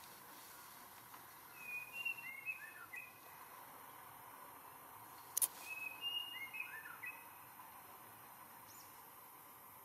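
A bird singing the same short phrase of quick chirping notes twice, about four seconds apart, with a single sharp click just before the second phrase.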